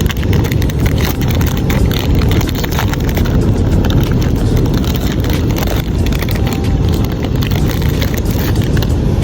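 Wind buffeting a phone microphone: a loud, steady, low rumbling rush that keeps fluctuating.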